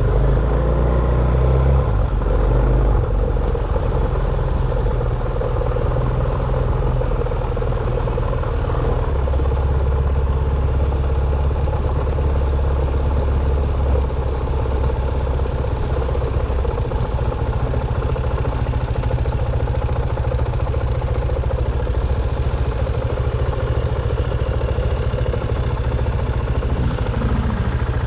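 Dirt bike engine running steadily as the bike is ridden, with a heavy low rumble and some rattling throughout.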